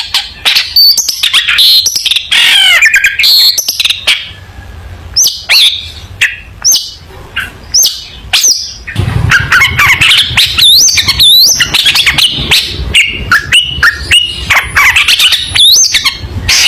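Long-tailed shrike (cendet) singing loudly: a rapid, varied run of sharp chattering notes and quick rising and falling whistles, sparser for a few seconds and then denser through the second half.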